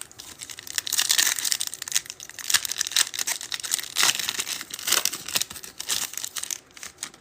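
Foil wrapper of a pack of football trading cards being torn open and crinkled in the hands, a dense crackling that starts just after the beginning and stops shortly before the end.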